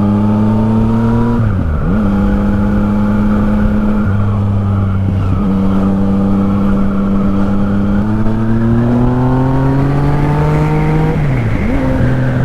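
Yamaha MT-09's inline three-cylinder engine through an Akrapovic exhaust, heard from on the bike while riding: the revs climb slowly, drop at a gear change about a second and a half in, run steady, pull up again for a few seconds and change gear once more near the end.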